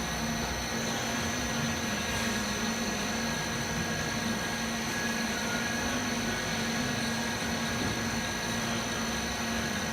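CNC lathe running: a steady mechanical hum with a constant high whine.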